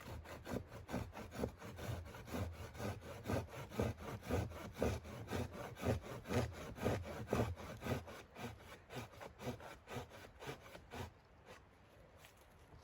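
Hand saw cutting through wood in steady back-and-forth strokes, about two to three a second, that stop about eleven seconds in.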